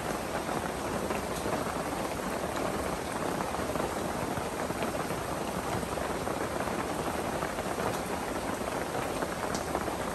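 Steady rain-like hiss, with a few faint clinks of a spoon against a ceramic soup bowl.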